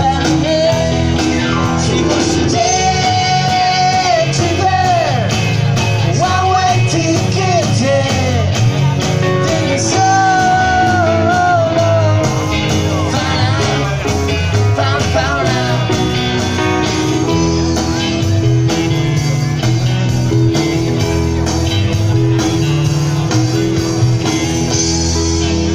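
Live rock band playing a song, with a lead singer, guitar, bass and drums: singing over the first half or so, then the band carries on instrumental.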